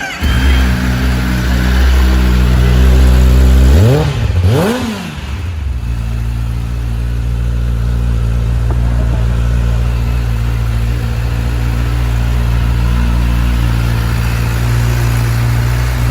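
Kawasaki ZX10R inline-four sportbike engine idling through its exhaust, blipped twice quickly about four seconds in, each rev rising and falling, then settling back to a steady idle.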